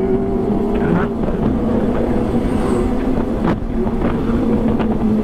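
Kawasaki ZX-25R's 250 cc inline-four engine running steadily while the motorcycle is ridden, with wind rumbling on the microphone.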